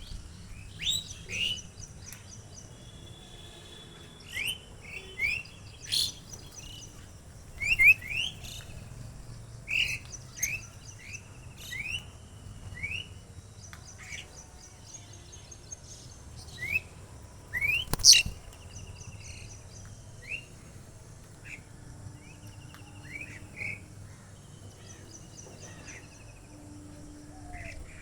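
Small birds chirping: many short, quick upward-sweeping chirps, one every second or so, with a louder sharp call about 18 seconds in.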